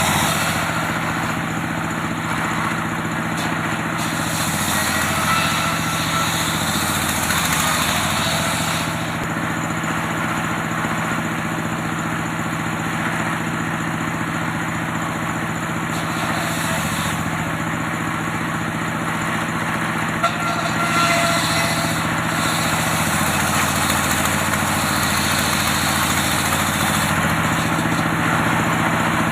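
Engine running steadily with a low hum, powering an antique circular saw rig; its pitch sags slightly twice, and there is one sharp tick about two-thirds of the way through.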